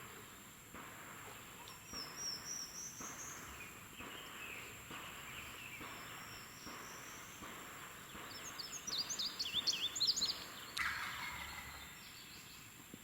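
A wild turkey gobbler gobbling in the woods, with a small bird chirping quickly and loudly about nine to ten seconds in.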